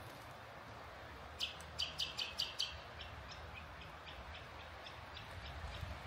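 A bird calling: a quick run of about six short high notes, then a longer series of fainter repeated notes, over a steady low background rumble.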